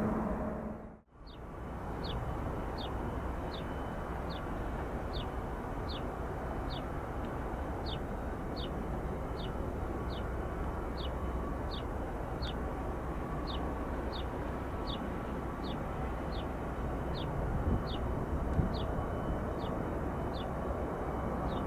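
Steady airport background rumble with a small bird repeating a short, high, falling chirp about every two thirds of a second.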